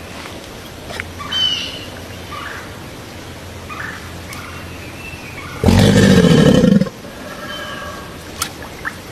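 A crocodile calling once: a loud, pitched call a little over a second long that rises and then falls, about halfway through. Faint bird chirps sound in the background before it.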